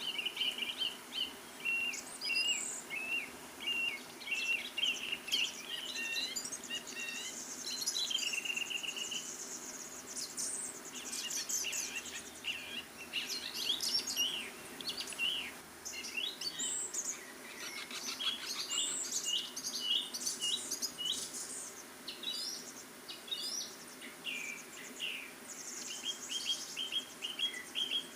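Small songbirds singing and calling: a run of quick, repeated high chirps at the start and again near the end, with other higher trills and chirps in between.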